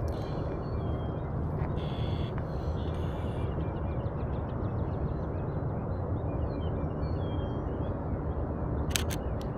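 Outdoor ambience: a steady low rumble with small birds chirping faintly throughout, and a few sharp clicks close together near the end.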